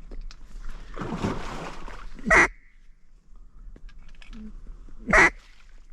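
A DRC Harlot mallard hen call blown in single loud quacks, twice, about three seconds apart, to call an incoming drake mallard into the decoys. A softer rustling hiss comes before the first quack.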